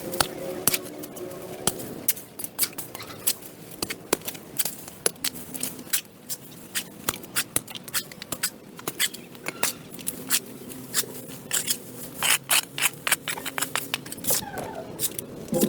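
Irregular sharp clicks and scrapes from hand tools cutting and scraping at overgrown growth on a sidewalk, with a denser, louder run about twelve seconds in.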